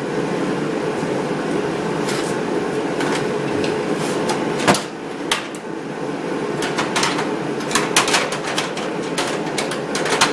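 Steady hum of a shop heater, with sharp metallic clicks and clinks of hand tools being picked up and set down: one loud click about halfway through, then a quick run of clinks near the end.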